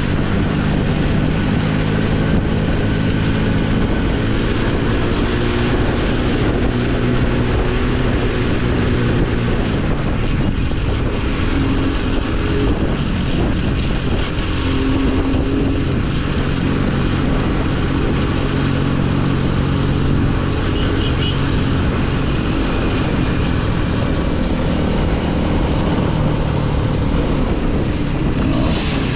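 A small motorcycle engine running steadily under way, its pitch rising and falling slightly with the throttle, over steady rushing noise from the ride.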